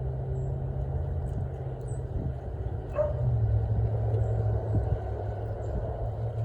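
A steady low rumble, with a few faint, short, high chirps from small birds and one short sharp sound about three seconds in.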